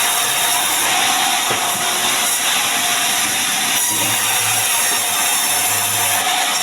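Power saw running steadily as it cuts mahogany timber into beams, with a dense, steady hiss over it.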